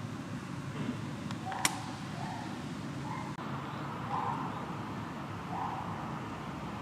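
Steady background noise with one sharp click about one and a half seconds in, and a few short faint sounds after it.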